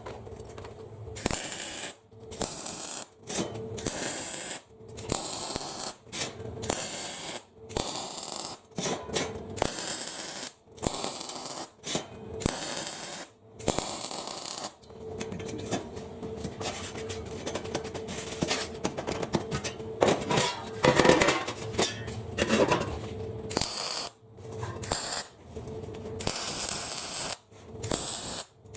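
Arc welding on steel fire pit panels: short bursts of welding crackle and hiss, starting and stopping abruptly about once a second, as in tack welding.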